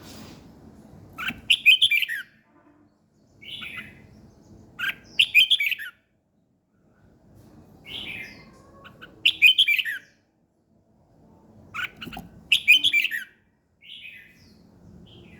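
A songbird singing short, loud chirping phrases, one roughly every three to four seconds, over a low background rumble.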